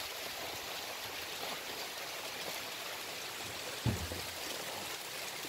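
Steady rain falling, an even hiss, with one brief low sound about four seconds in.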